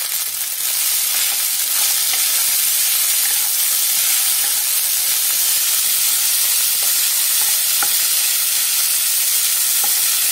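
Soaked sabudana (tapioca pearls) frying in hot oil in a non-stick kadhai while being stirred with a wooden spatula: a steady sizzling hiss that grows louder about a second and a half in.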